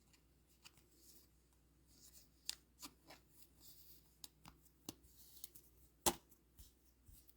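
Trading cards being handled and shuffled by hand: soft sliding and rustling with scattered light clicks, the sharpest about six seconds in.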